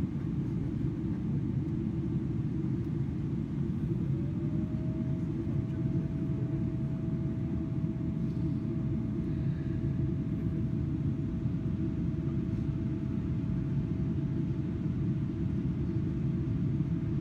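Steady deep rumble inside the cabin of a Boeing 777-300ER airliner. About four seconds in, a thin mechanical whine rises to a steady pitch and holds, falling away near the end.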